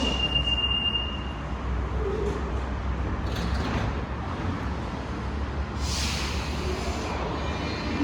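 Santiago Metro train at a station: a steady low rumble, with a high steady tone that fades out in the first second or so. There are two brief hisses, one about halfway through and one near six seconds.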